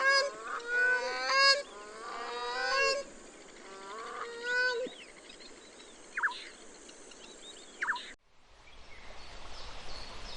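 Grey-crowned cranes calling: a series of loud honking calls over the first five seconds, then two short high chirps. About eight seconds in the sound cuts abruptly to faint steady background noise.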